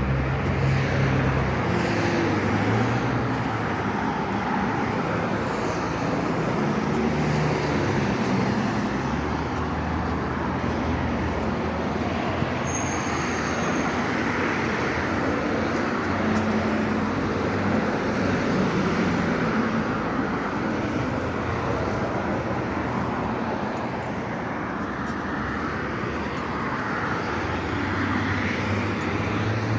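Steady road traffic noise on a city street, with the low hum of vehicle engines near the start and again near the end.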